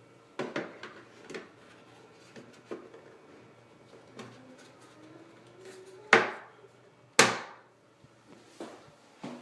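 Plastic grille of a Panasonic ceiling exhaust fan being handled and fitted back on: scattered light clicks and taps, then two loud knocks about a second apart as it is pushed into place.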